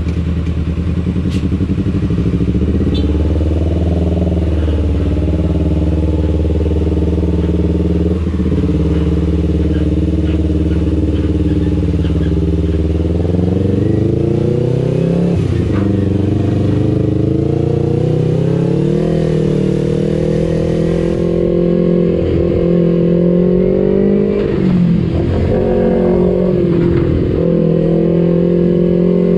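Kawasaki Ninja 250 FI parallel-twin engine running through an aftermarket R9 H2 exhaust while riding. It holds steady revs at first, then the revs climb and fall several times in the second half.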